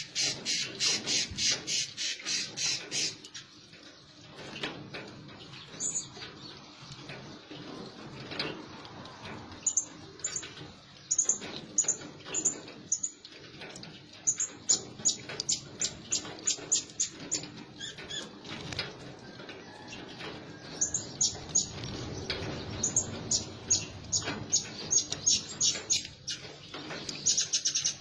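Blue-crowned hanging parrots calling: runs of short, high, thin chirps at about four to five a second, coming in several bursts with quieter gaps between.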